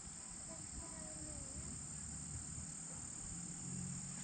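A steady, high-pitched drone of crickets or other insects over a low, uneven rumble.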